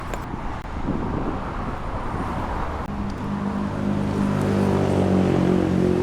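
Highway traffic noise, with a vehicle's engine coming in about three seconds in and growing louder as it approaches.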